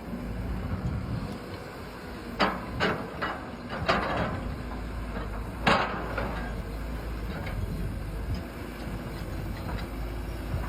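Small electric motors and gearing of radio-controlled construction models running with a steady low hum, broken by several sharp knocks and clacks a couple of seconds in.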